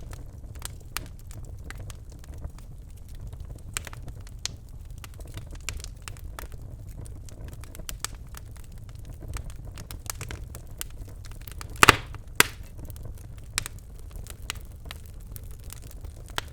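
Birchwood fire crackling in a fireplace: a steady scatter of small snaps and pops over a low rumble of flame, with one loud sharp pop about twelve seconds in and a few smaller pops after it.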